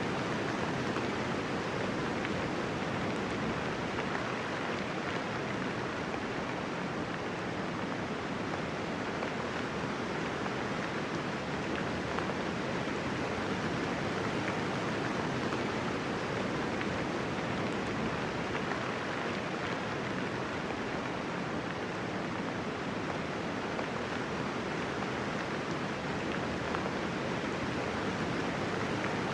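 Steady light rain falling, an even hiss of raindrops with no thunder and no single drops standing out.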